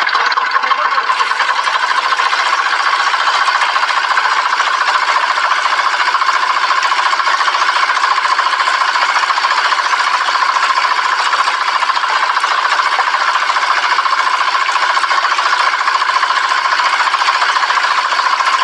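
Small motor of a miniature DIY tractor water pump running steadily with a fast, even, rattling buzz, all high and without any low rumble.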